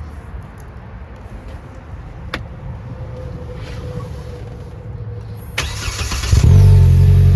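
2020 Polaris Slingshot R's four-cylinder engine being started: a single click, then near the end the starter cranks for under a second before the engine catches and settles into a loud, steady idle.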